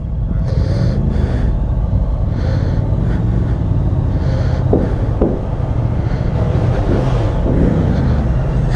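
Motorcycle engine running steadily at low revs, a constant low drone.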